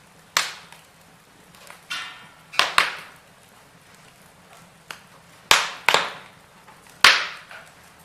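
Wood fire burning in a fireplace, logs crackling with about seven sharp pops and cracks over a faint hiss, the loudest in the second half.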